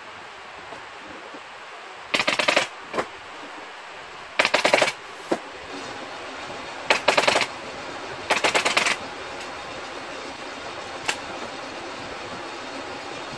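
Pneumatic upholstery staple gun firing in rapid bursts: four runs of quick shots, each about half a second long, with a few single shots between them.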